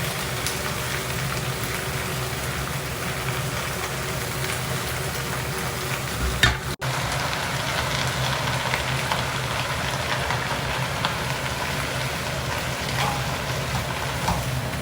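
Food sizzling and crackling as it fries in a pan, with a single sharp knock about six and a half seconds in.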